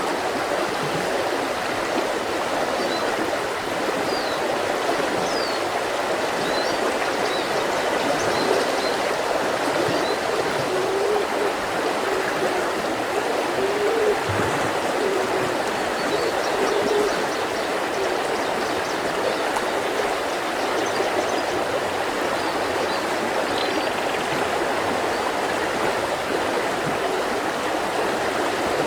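Mountain river running steadily over rocks, a constant rushing with some gurgling. Faint short bird chirps sound now and then above it.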